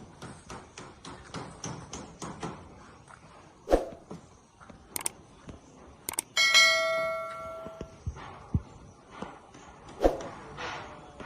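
Footsteps and a few knocks, then a loud clang that rings with several steady tones and fades over about a second and a half.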